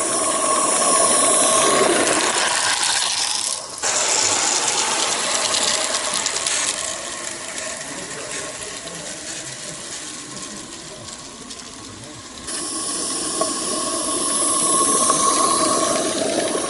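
Steady hissing, rushing noise with faint high tones through it, which breaks off abruptly and changes character several times.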